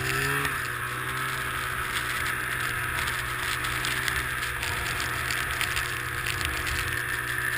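Snowmobile engine running steadily at an even pitch, with a brief drop in pitch in the first half second.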